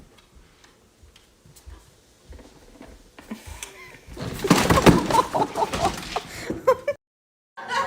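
Birds calling, faint at first, then a busy stretch of many short, quick calls over the last few seconds, which stops abruptly.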